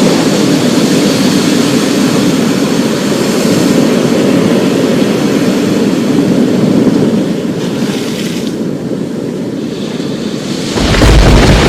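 Thunderstorm: a steady, loud roar of rain and rolling thunder. Just before the end, a louder, deeper rumble of thunder sets in.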